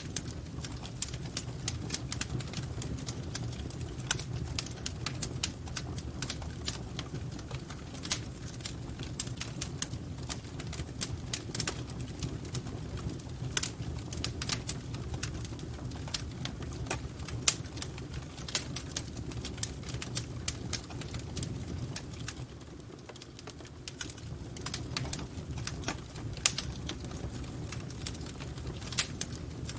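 Wood fire in a fireplace crackling: irregular sharp pops and snaps over a steady low rumble, easing briefly about two-thirds of the way through.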